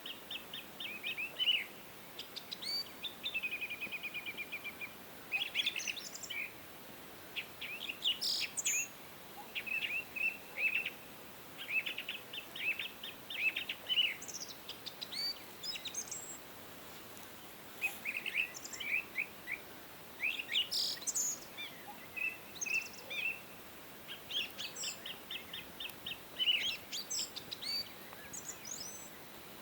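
Songbirds singing: bursts of quick, high chirps and trills, one phrase after another with short pauses, over a faint steady hiss.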